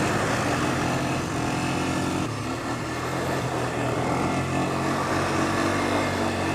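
A motor vehicle's engine running steadily with road noise, its pitch shifting slightly about two seconds in.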